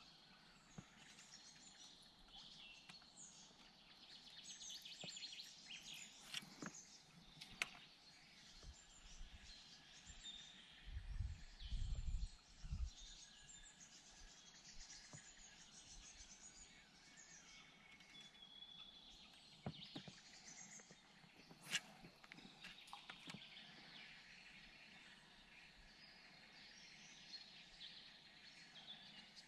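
Faint birdsong: many short chirps and calls over a quiet outdoor background, with a few sharp clicks and a brief burst of low thumps about eleven to thirteen seconds in.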